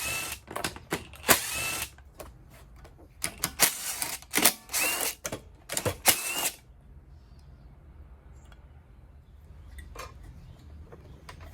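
Cordless power driver run in a string of short bursts, some with a rising whine as the motor spins up, taking out the cover bolts on a Briggs and Stratton mower engine to reach the valves. After about six and a half seconds it stops, leaving a few faint clicks of parts being handled.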